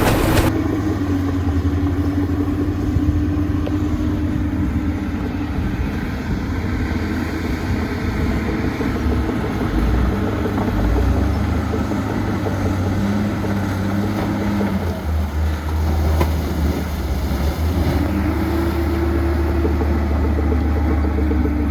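Heavy diesel engine of earthmoving machinery running continuously with a deep, steady drone; its note sags slightly a second or so in and rises again near the end.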